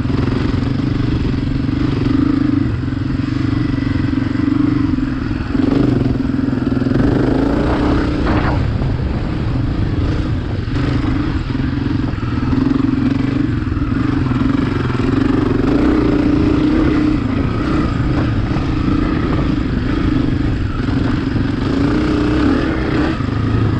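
Dirt bike engine running while being ridden, its note rising and falling a little with the throttle.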